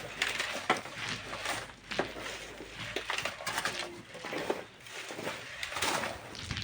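Irregular scrapes and knocks of hand tools working sand and stone.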